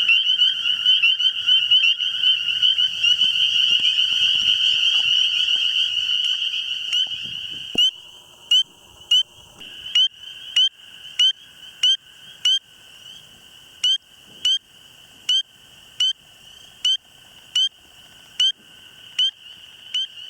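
A loud, dense frog chorus for the first eight seconds or so. It then gives way to a single male spring peeper calling close by, repeating short rising peeps about once or twice a second.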